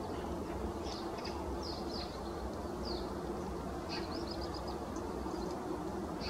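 Birds chirping with short, high, falling notes, several a second at times, over a steady low rumble with a faint hum.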